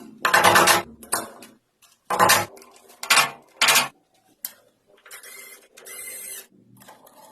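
Metal parts of tractor gearing clanking and scraping as they are handled and fitted, in four short loud bursts. Near the end come two steadier spells of metal rubbing on metal.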